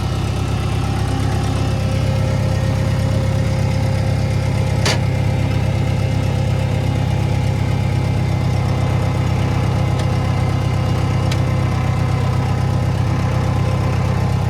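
International 125 crawler loader's engine idling steadily, left running to circulate transmission fluid after a new transmission filter and to warm up. A single sharp click about five seconds in.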